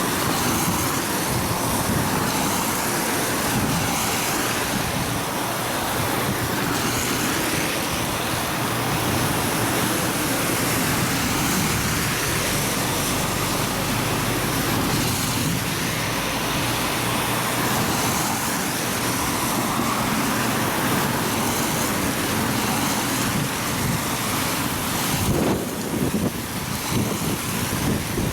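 Steady rumble and rushing noise of a moving vehicle, with wind buffeting the microphone for a moment near the end.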